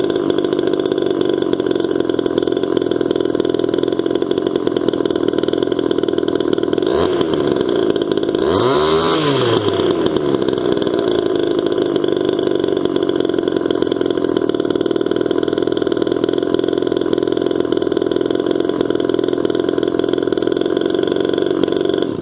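1977 Poulan Micro XXV Super Deluxe 38cc two-stroke chainsaw, port-worked, running steadily. It is blipped once about a third of the way in and revved up and back down just after. The sound cuts off suddenly at the end.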